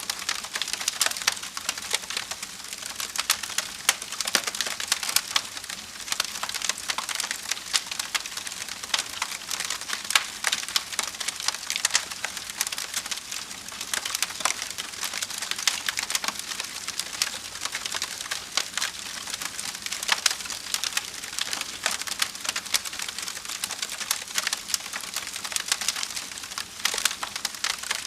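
Wood fire burning in a fireplace, crackling and popping steadily with many small sharp snaps over a soft hiss.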